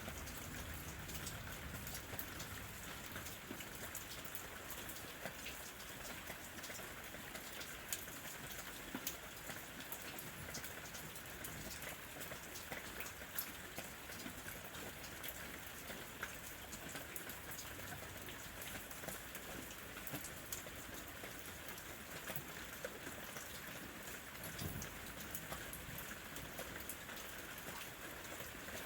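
Steady rain falling on lemon trees: an even hiss with many close individual drops ticking and pattering on the leaves and fruit.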